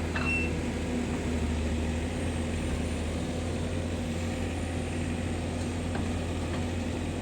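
Diesel engines of heavy earth-moving machines, an excavator and a backhoe loader, running steadily with an even low hum.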